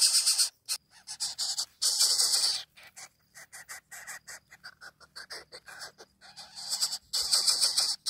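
Coucal chick begging with rapid, raspy hissing calls in short bouts, loud at first, fainter in the middle, then loud again near the end.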